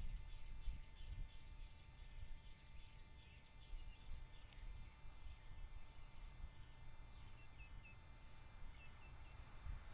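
A bird chirping: a quick run of short, high, falling chirps, several a second, for the first four seconds or so, then a few fainter short chirps near the end. A low, uneven rumble of noise runs underneath.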